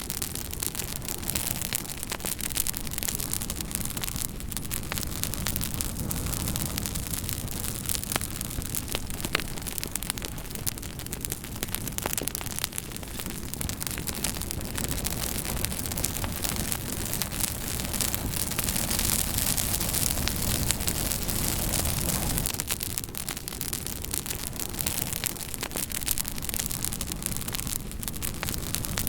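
Campfire burning with a steady hiss and frequent sharp crackles and pops of burning wood.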